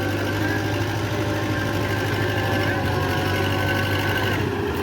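Tractor engine running steadily at idle, with an even low hum.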